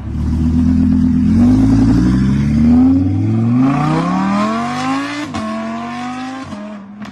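Audi R8 Performance's naturally aspirated V10 through an aftermarket catback exhaust, accelerating hard: the pitch climbs and drops back several times as it shifts up through the gears. After about five seconds it settles to a steady note and fades away near the end.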